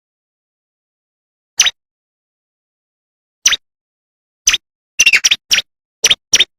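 Bar-winged prinia (ciblek) calling in short, sharp chirps: single notes about two seconds apart at first, then a quick run of six or so chirps in the last two seconds.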